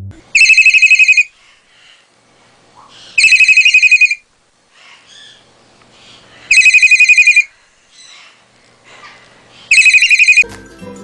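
A trilling ring like a telephone's, sounded four times, each ring about a second long and about three seconds apart.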